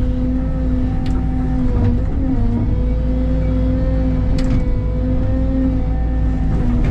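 Rented Cat excavator's diesel engine running steadily, with two sharp knocks, about a second in and about four and a half seconds in.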